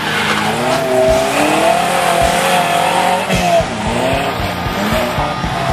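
Off-road 4x4 engine revving up and down as the vehicle drives hard through a dirt and mud course, its pitch rising and falling over and over.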